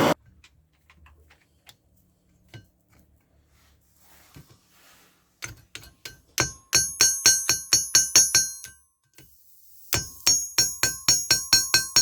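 Faint scattered taps, then two quick runs of light hammer blows on metal, about five a second, each blow ringing at the same bright pitches; the second run starts a little after the first stops.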